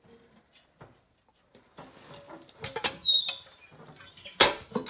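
Metal hardware being handled: scattered clicks and clinks, two short high squeaks about three and four seconds in, and a sharp knock near the end.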